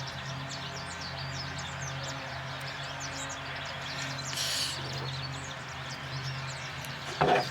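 Many small birds chirping over a steady low hum. A short hiss comes about four and a half seconds in, and a brief louder sound comes near the end.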